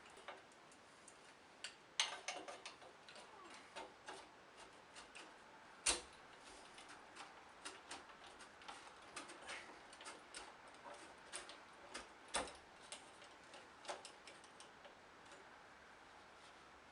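Faint, irregular clicks and knocks of hard objects being handled, with sharper knocks about two, six and twelve seconds in.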